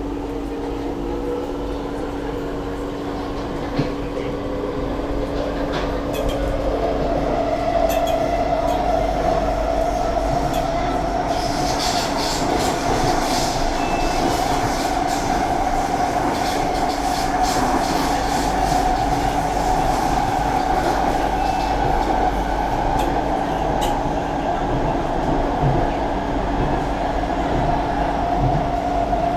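Kawasaki-Sifang C151A MRT train running between stations, heard from inside the car: the traction motor whine rises in pitch over the first several seconds and then holds steady over wheel and track noise. A high wheel squeal comes in briefly partway through.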